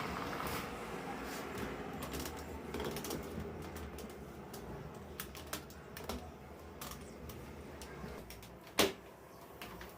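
Irregular light clicks and taps of household kitchen work, such as dishes and utensils being handled, over a low steady hum, with one louder knock near the end.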